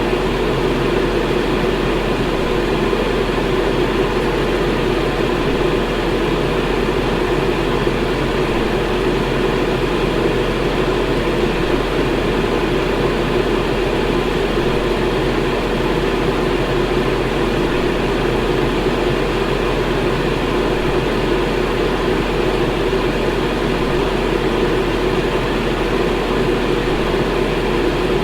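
Electric fan running steadily: an even whooshing of moving air with a low hum, unchanging throughout.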